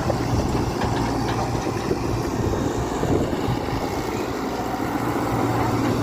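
Tata Hitachi EX120 hydraulic excavator's diesel engine running steadily.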